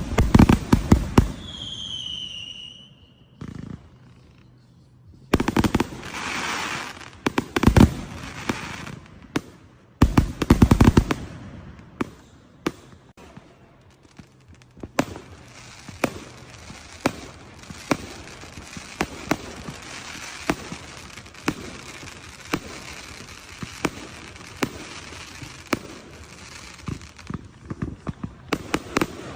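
Consumer fireworks going off: loud bangs at the start and again about ten seconds in, with a short whistle near the start. The second half is a long run of fast crackling pops.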